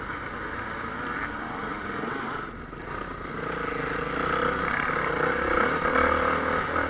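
Off-road motocross motorcycle engines running hard on the race track. The engines dip briefly a little before the middle, then grow louder through the second half.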